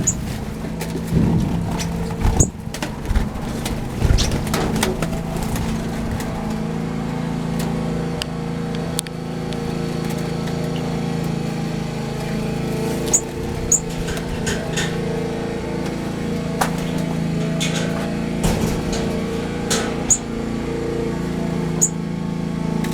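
A steady low motor drone, with small aviary birds giving short high chirps every second or two over it.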